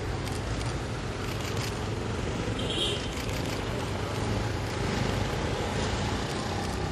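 A car engine running with a steady low hum amid traffic, with faint voices murmuring underneath and one short high chirp about three seconds in.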